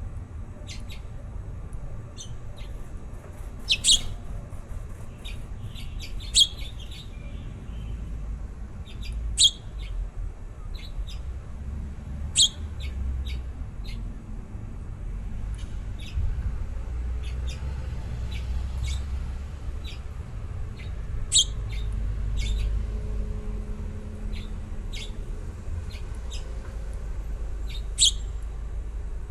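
Baby birds chirping: short, high chirps come irregularly throughout, with a few louder single chirps standing out, over a steady low rumble.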